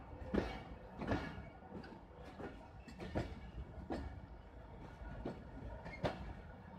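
Passenger train rolling slowly, its coach wheels knocking over rail joints about once every three-quarters of a second over a low running rumble.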